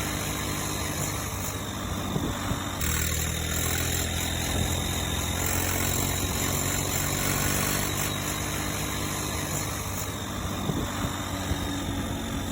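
A tractor engine running steadily at a low, even hum, with a shift in its note about three seconds in.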